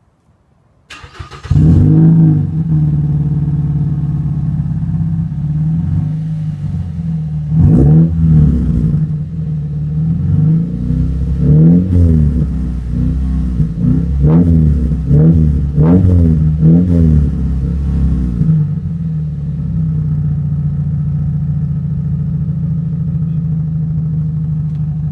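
Mazda 6 GG with a straight-through exhaust, starting about a second in and settling to a steady idle. From about eight seconds in it is revved in a series of short blips, each rising and falling back, then it returns to a steady idle for the last several seconds.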